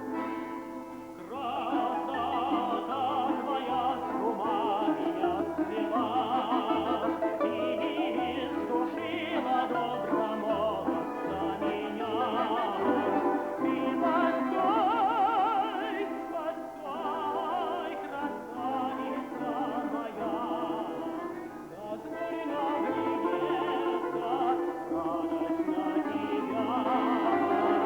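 A tenor singing a Russian song in a classical style with wide vibrato, accompanied by an instrumental ensemble.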